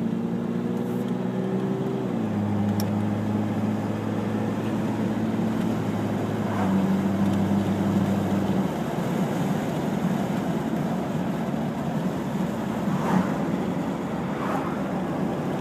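Toyota Land Cruiser FZJ80's 4.5-litre inline-six with an aftermarket Magnaflow exhaust, droning steadily under light load, heard from inside the cabin with the windows cracked. The engine note climbs slightly, then steps down in pitch about two seconds in. From about nine seconds in it falls away, leaving road and wind noise.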